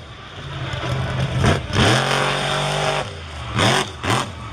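Monster truck engine revving hard in quick throttle blips: one about a second and a half in, where it holds a steady high pitch for a moment before dropping, then two short blips near the end.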